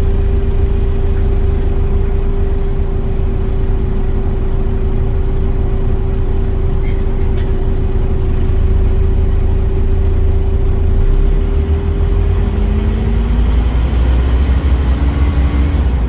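Scania Omnicity bus's diesel engine running at idle, with a heavy rumble and a steady whine. Near the end it picks up revs, its pitch rising.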